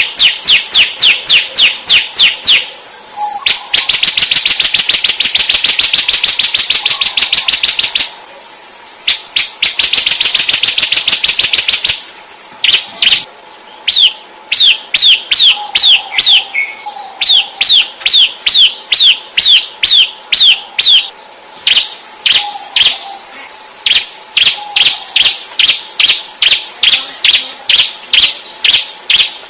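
Murai songbird (white-rumped shama) singing loudly: long runs of rapid, downward-slurred whistled notes repeated several times a second, breaking into fast dense trills. A steady high-pitched buzz runs behind much of the song.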